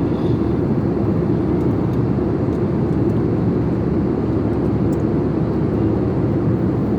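Steady low rumble of a passenger airplane's engines and airflow heard inside the cabin, holding an even level throughout.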